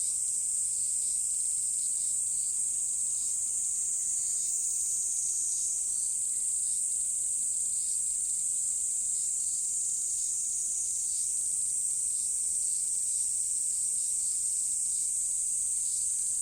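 Insects calling in a steady, high-pitched chorus that holds unbroken throughout, with faint brief chirps beneath it.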